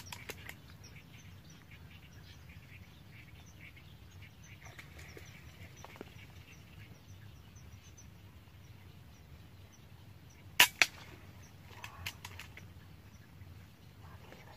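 Two sharp cracks in quick succession about ten seconds in, followed a second later by a few lighter clicks: an air rifle being fired. Faint high chirping runs underneath.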